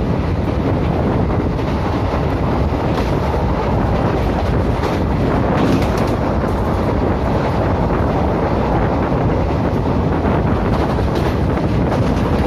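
Steady rush of wind on the microphone over the rumble of a passenger train running at speed, with a few faint clicks from the track.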